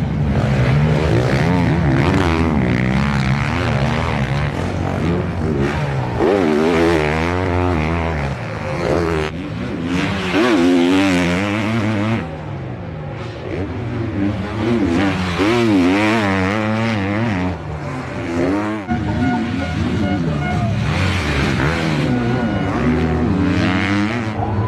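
Motocross racing bikes' four-stroke engines revving hard and dropping back over and over as they race, several at once with the pitch constantly rising and falling.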